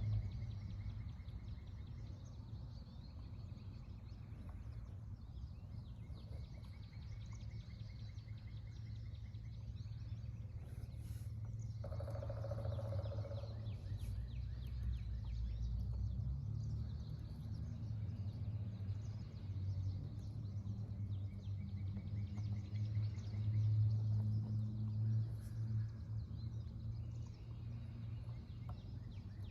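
Outdoor garden ambience: birds chirping, with rapid trills now and then, over a steady low hum, and a short sound about twelve seconds in.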